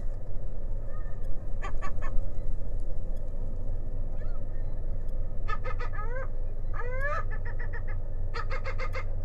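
Gulls calling: bursts of short, quickly repeated notes several times, with a couple of upward-sliding calls in the middle, over a steady low rumble.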